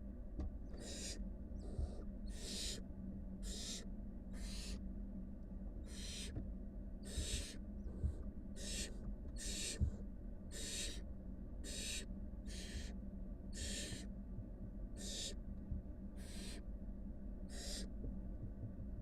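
Barn owl nestlings giving their hissing begging calls, a run of short rasping hisses, one or two a second and overlapping, over a steady low electrical hum, with a few soft knocks.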